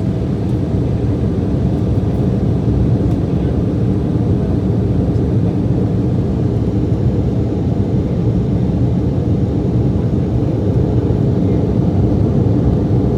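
Embraer E175 cabin during the climb after takeoff: a steady, deep rumble of the jet's turbofan engines and the airflow over the fuselage.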